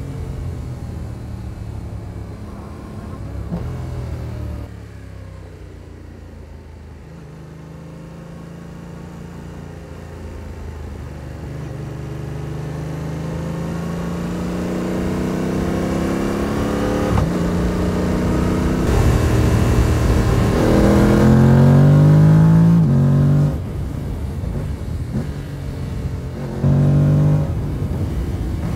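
Yamaha R7's parallel-twin engine under way: revs fall away off the throttle early on, then climb in one long slow pull to a peak about three-quarters through, drop suddenly as the throttle is closed, and rise again in a short burst of throttle near the end.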